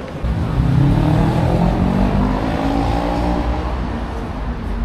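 A car engine revving loudly, coming in suddenly just after the start, its pitch climbing through the middle and easing off toward the end.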